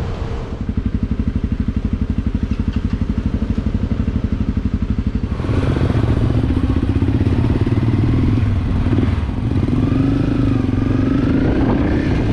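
Motorcycle engine idling with an even, pulsing beat, then getting louder about five seconds in as the bike pulls away and rides on.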